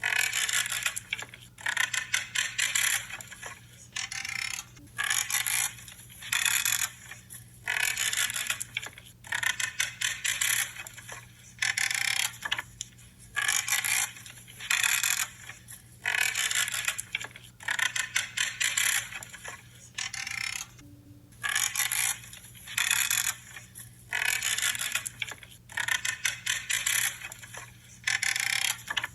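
Branches being cut one after another, each cut a crunching, creaking snip lasting under a second, about one a second with a short break about two-thirds of the way through.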